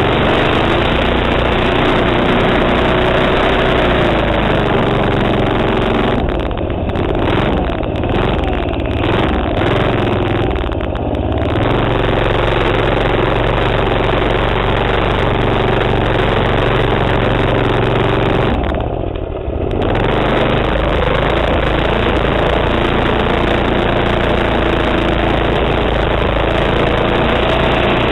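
Manco minibike's 3.5 HP Tecumseh single-cylinder four-stroke engine running hard under riding, its pitch wavering as the throttle opens and closes. It briefly drops off several times between about 6 and 11 seconds in, and once more near two-thirds of the way through.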